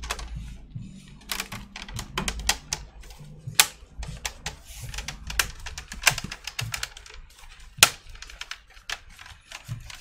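Irregular sharp clicks and taps of hard plastic laptop parts being handled on a workbench, with a few louder snaps among them.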